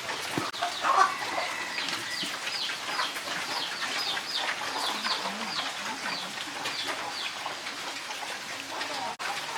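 Chickens calling in a rapid series of short, falling cheeps, with a brief louder sound about a second in.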